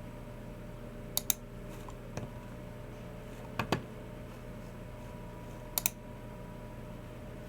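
Sparse keystrokes on a Logicool MX Keys Mini low-profile keyboard: four short bursts of clicks, mostly quick pairs, spread a second or two apart, over a steady low hum.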